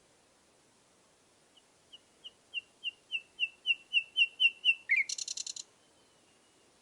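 A bird singing: a run of about a dozen short, clear high notes that come faster and louder, ending in a brief rapid rattle.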